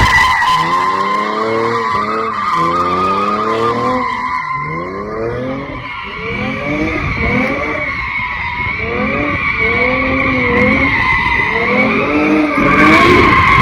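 V6 car doing donuts: tyres squealing in a steady high screech while the engine revs climb and drop again and again.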